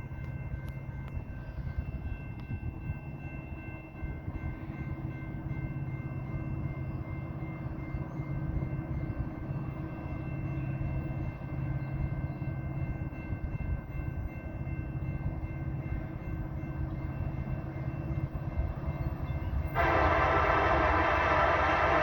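BNSF coal train's diesel-electric locomotives, an SD70ACe leading, rumbling steadily as the train approaches. Near the end the lead locomotive's air horn comes in loudly and holds.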